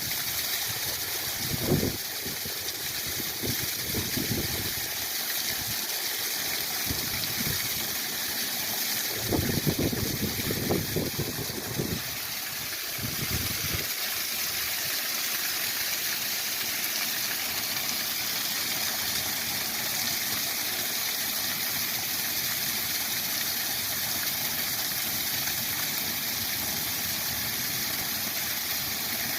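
Waterfall rushing as a steady hiss of falling water. Through the first half there are uneven low buffets of wind on the microphone, which stop about halfway through.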